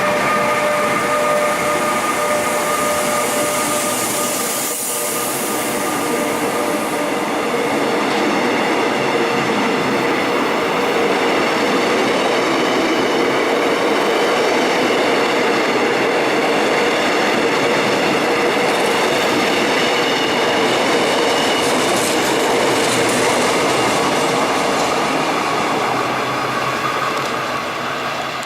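A train running along the station tracks: a loud, steady rumble of wheels on rail with some clatter and steady whining tones, and a single knock about five seconds in. It fades toward the end.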